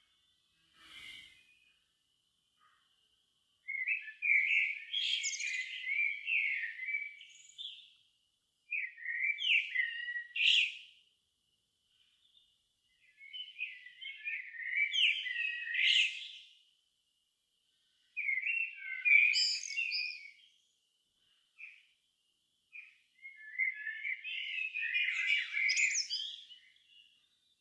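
A songbird singing five varied, warbled phrases, each two to four seconds long, with pauses of a second or two between them.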